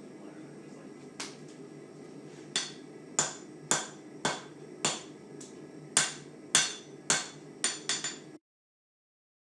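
Hand hammer striking hot carbon steel on an anvil while forging a knife blade: about eleven sharp ringing blows, roughly two a second with a short pause in the middle, over a steady low hum. All sound cuts off suddenly near the end.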